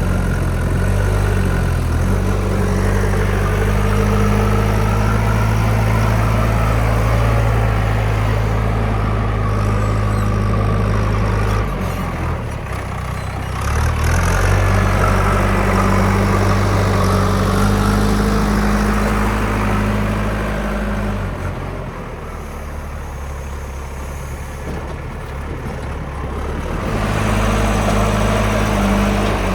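Kirloskar-engined JCB 3DX backhoe loader's diesel engine working, its revs rising and falling with the digging and loading. It drops back briefly about twelve seconds in and again for several seconds past the twenty-second mark, then picks up again.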